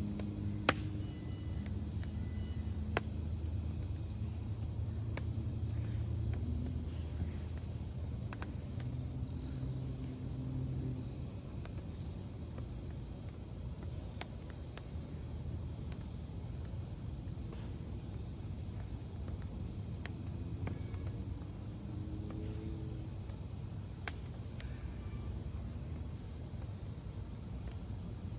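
Crickets chirping in a steady unbroken chorus over a wood campfire burning with a low rumble and a few sharp crackling pops, the loudest near the start and about 24 seconds in.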